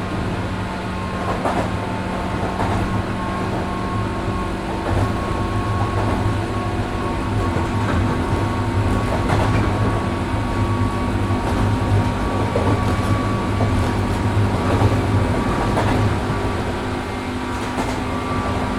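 103 series 1500 subseries electric train running between stations, heard from inside the car: a steady low hum and whine from the motors and gears, over rail and wheel noise with occasional faint clicks of wheels passing rail joints.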